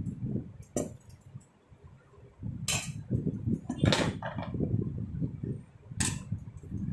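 Kitchen utensils being handled, with low knocking and rubbing and four sharp clinks spread over several seconds.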